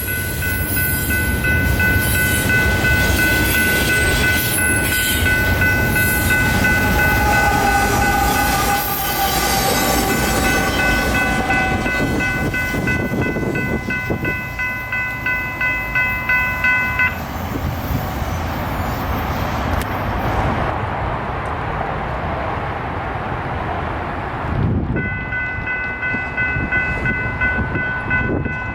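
A train passing, a continuous rumble, with several steady high-pitched tones over it that cut off about 17 seconds in and come back about 25 seconds in.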